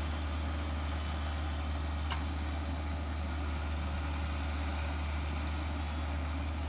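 Steady low rumble throughout, with one faint click about two seconds in.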